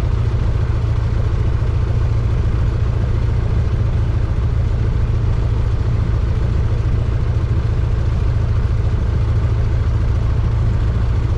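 Cessna 172's engine and propeller droning steadily in the cabin, an even, unchanging hum with no change in power.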